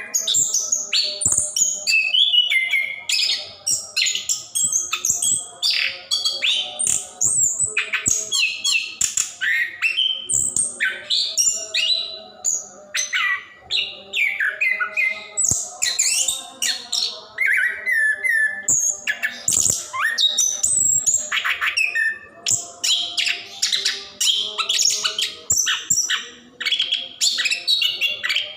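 Chestnut-capped thrush singing in a long unbroken run: a dense, rapid stream of varied whistles and chirps, many sliding up or down in pitch, typical of a bird in full 'gacor ngerol' song.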